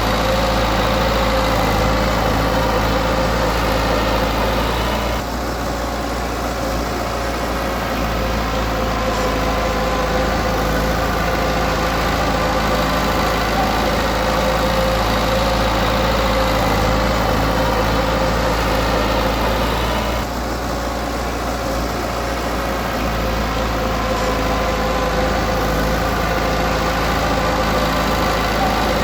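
Komatsu D20P bulldozer's diesel engine running steadily, with a brief drop in level about five seconds in and again about twenty seconds in.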